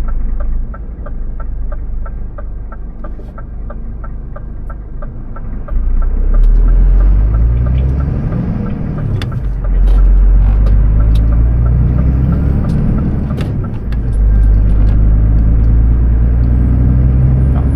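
Truck diesel engine idling, then pulling away about six seconds in and climbing in revs in repeated rising sweeps, with short breaks between them as it changes up through the gears.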